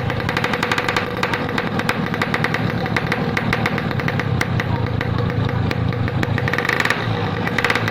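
Yamaha RX-King two-stroke single-cylinder motorcycle engine running through its exhaust, a steady rapid crackle.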